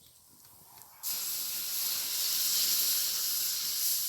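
Campfire embers hissing as water is poured on them, steam hissing up while the fire is put out. The hiss starts suddenly about a second in and holds steady.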